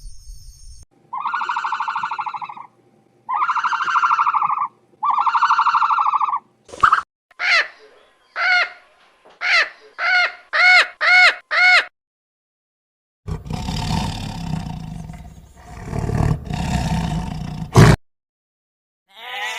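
A series of different animal calls: three long pitched calls, then a run of short arched calls that speed up, then a long rough roar.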